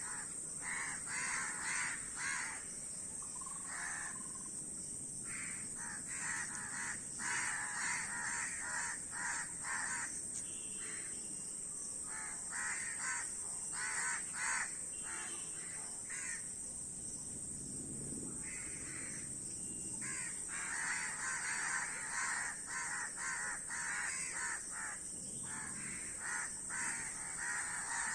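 A flock of crows cawing, many short calls repeating and overlapping, with lulls about four seconds in and again past the middle. A steady high hiss runs underneath.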